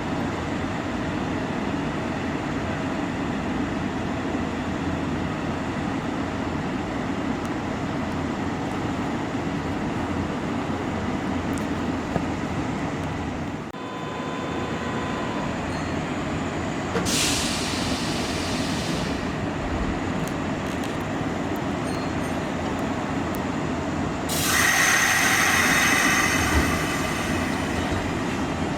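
Kintetsu Minami-Osaka Line electric train running at the station with a steady rumble. About seventeen seconds in there is a short high hiss, and near the end a louder stretch of a few seconds with a high whine.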